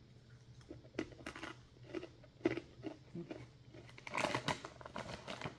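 Someone biting and chewing a very crispy sorghum-based pretzel stick: a run of faint, sharp crunches, thickening into a busier stretch of crunching from about four seconds in.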